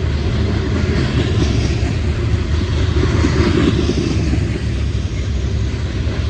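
CSX coal train rolling past, a loud steady rumble.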